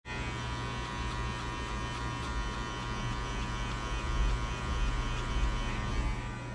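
Electric hair clippers buzzing steadily, with a constant pitch throughout.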